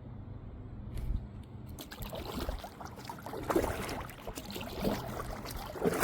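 Kayak paddle strokes: irregular splashing and dripping water against the hull, starting about two seconds in after a faint low hum.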